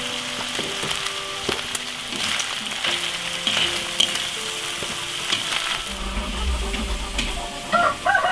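Chopped greens sizzling as they stir-fry in a cast-iron wok, with scattered light clicks of chopsticks tossing them against the pan. A rooster starts to crow near the end.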